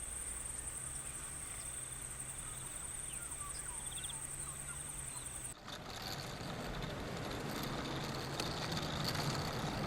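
Outdoor ambience with a steady high-pitched insect trill and a few faint bird chirps. After an abrupt change a little over halfway through, a vehicle's engine rumbles, slowly growing louder as it approaches.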